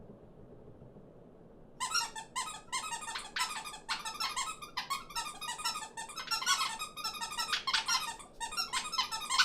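A flock of small cartoon birds chattering and squabbling at once in rapid, overlapping squeaky chirps, starting suddenly about two seconds in.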